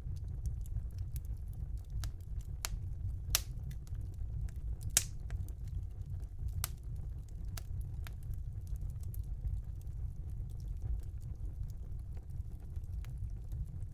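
Wood fire burning in a fireplace: a steady low rumble with scattered sharp crackles and pops, the loudest about three and a half and five seconds in.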